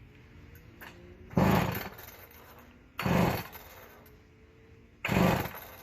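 Old McCulloch two-stroke chainsaw being pull-started: three hard pulls on the recoil starter about two seconds apart, each a brief cranking rasp, and the engine does not catch, which the owner takes for a loss of spark.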